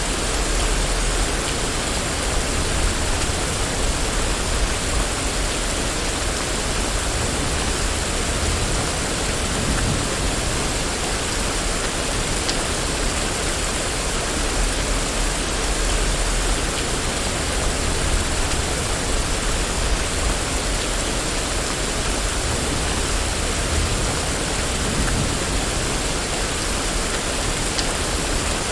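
Steady rain falling on a street, a dense even hiss with a low rumble beneath and a few faint drip ticks.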